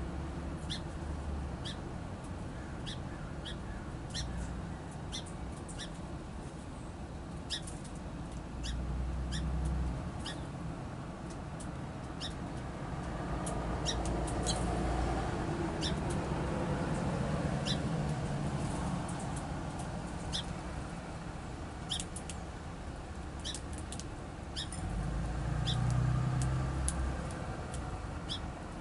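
Small songbirds giving short, high chip notes at irregular intervals, over a steady low rumble that swells now and then.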